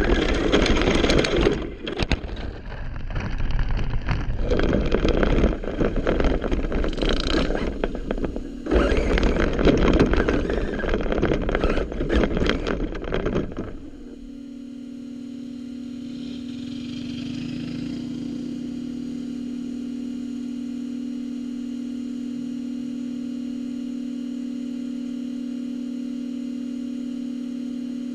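Vehicle motors running: loud, uneven rushing sound that surges and dips for about fourteen seconds. It then gives way to a steady engine idle, a constant-pitched hum with overtones, most likely the dirt bike's engine idling.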